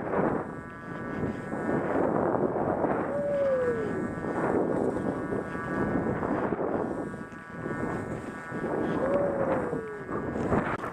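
Skis rushing through powder snow with wind on the microphone, swelling and dipping with each turn, over a steady high-pitched whine. Two brief whistle-like tones rise and then fall, one about three seconds in and one near the end.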